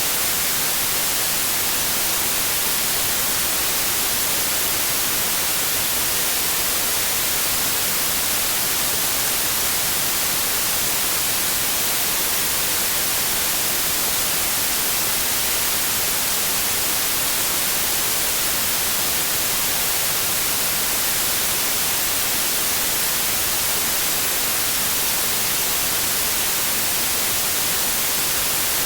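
Synthetic white noise: a steady, unchanging hiss with a flat spectrum. It sounds bright and hissy, with no tones, clicks or changes.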